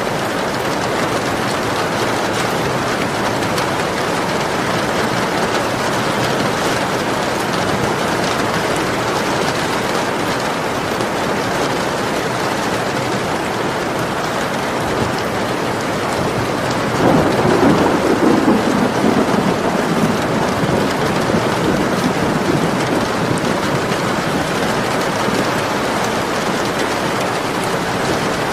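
Steady rain falling, with a roll of thunder that swells about two-thirds of the way through and fades out over several seconds.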